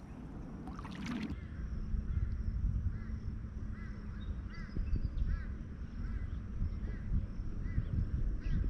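A bird repeats a short rising-and-falling call over and over from about two seconds in, over a low steady rumble.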